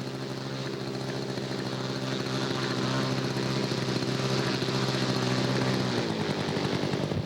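Engine of a radio-controlled model Corsair running steadily at one speed, then changing pitch about six seconds in.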